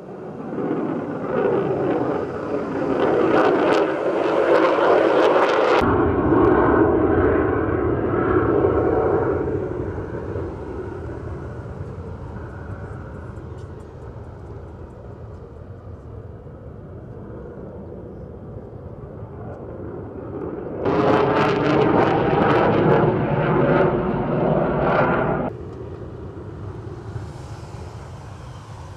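Military jet aircraft taking off with engines at high power. It grows loud in the first seconds and falls away after about nine seconds. A second loud stretch starts suddenly about 21 seconds in and cuts off about four seconds later.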